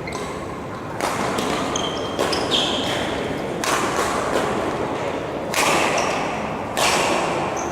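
Badminton rackets striking a shuttlecock in a rally, a sharp hit every second or two with a hall echo, mixed with brief squeaks of shoes on the court floor.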